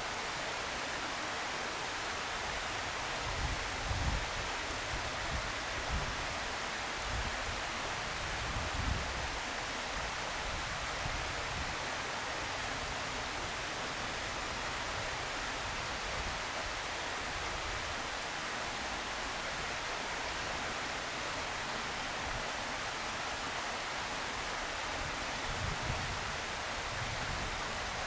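Steady outdoor hiss with a few brief low rumbles of wind buffeting the microphone.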